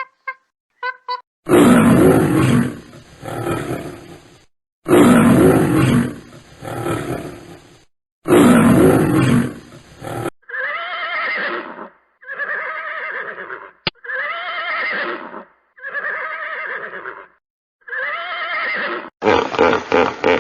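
Three long, loud lion roars, each trailing off, followed by a horse whinnying five times in quick succession, each whinny with a wavering pitch.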